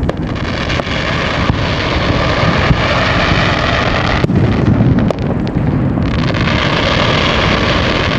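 A fireworks barrage going off continuously, with a dense low rumble of booms and sharp bangs. A higher hissing layer stops about four seconds in and comes back about two seconds later.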